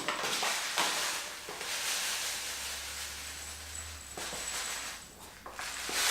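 Dry oatmeal being poured into a bowl: a steady rustling hiss lasting a few seconds, then a few light clicks.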